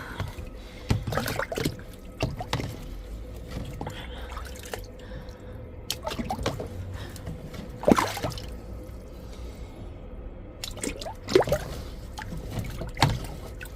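Water splashing and dripping in a blocked outdoor drain as drain rods are worked down it, with irregular sloshes and knocks, the loudest about eight seconds in. The standing water in the drain is starting to go down.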